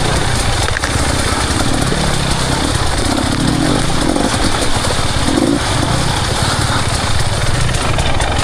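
Enduro motorcycle engine running steadily as the bike is ridden, with small rises and falls in the revs.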